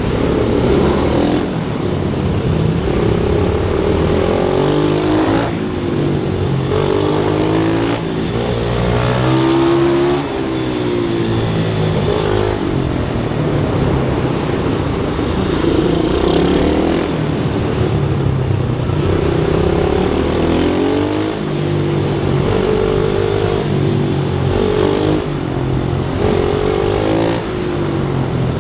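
Pit bike engines on track, revving up and down again and again: the pitch climbs under acceleration, then falls off as the rider shifts or brakes for the next corner.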